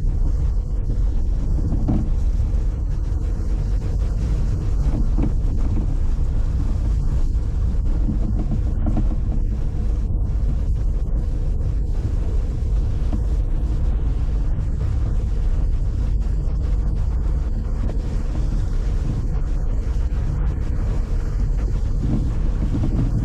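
Steady low rumble of a car driving, engine and road noise with wind noise on the microphone.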